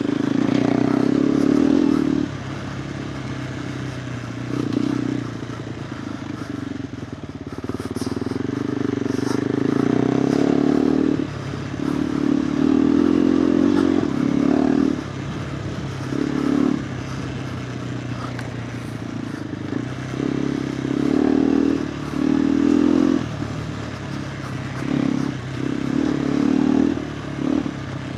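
KTM 390 Adventure R's single-cylinder engine running through a Norifumi Whoops stainless slip-on exhaust while the bike is ridden off-road. The exhaust note swells with repeated bursts of throttle, each one to three seconds long, and falls back to a lower note between them.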